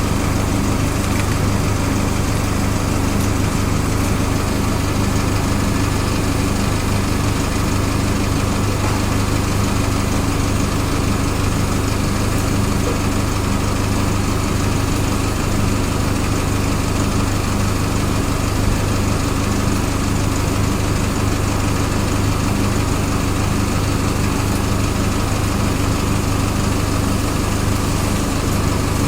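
A steady mechanical hum with a strong low drone and a faint regular pulsing, unchanging throughout.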